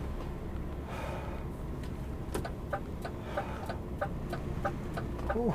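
In-cab sound of a DAF XF106 lorry: the engine runs with a steady low rumble, and a couple of seconds in the turn-signal indicator starts ticking, about three clicks a second.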